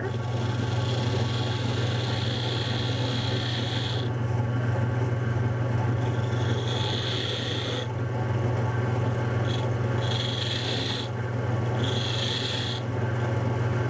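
Wood lathe motor humming steadily while a turning tool is pressed into the spinning hardwood spindle to cut a groove. The cutting makes a scraping hiss in about five passes of a second or two each.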